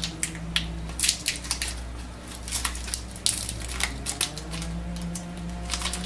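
Plastic wrapping crinkling and tearing in irregular crackles as an ink cartridge is unwrapped by hand.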